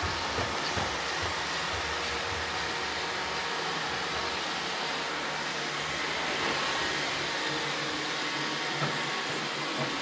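Roomba robot vacuum running: a steady, even whirring noise of the suction motor and brushes, with a few faint knocks.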